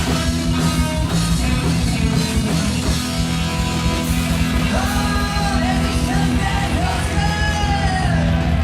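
Rock band playing live, with sustained bass and guitar notes over fast, dense drumming. A voice sings over the band from about five seconds in.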